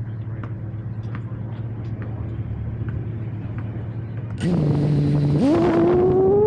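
A steady low hum with a few light clicks. About four and a half seconds in, an FPV quadcopter's motors throttle up with a sudden rush of propeller wash and a whine that holds briefly, then rises steadily in pitch as the drone climbs away.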